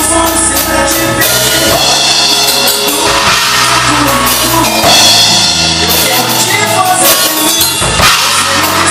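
A drum kit played along to a recorded song with a singer and bass, cymbals and drums hitting steadily.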